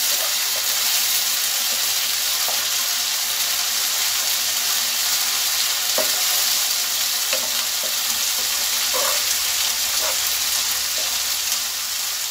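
Onions, dried red chillies, cumin and green moong dal sizzling in hot mustard oil in a nonstick kadai while being stirred with a wooden spatula: a steady high frying hiss, with a light scrape of the spatula on the pan now and then.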